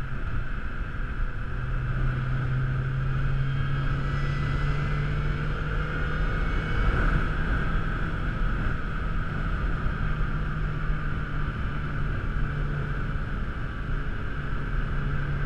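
Lotus Exige's engine running at a steady cruise, a constant drone mixed with road and wind noise, heard from inside the car's cabin.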